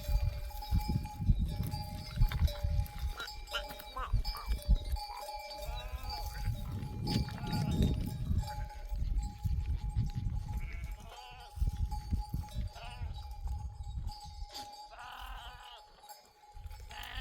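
Flock of sheep bleating a few times, with the steady ringing of a livestock bell over a low rumble.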